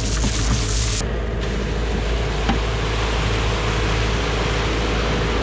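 A vehicle engine running steadily, a constant low hum, with a sudden change in the sound about a second in.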